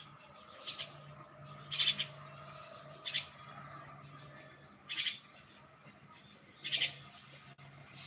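A small bird calling: five short calls, each about a quarter second long, spaced one to two seconds apart.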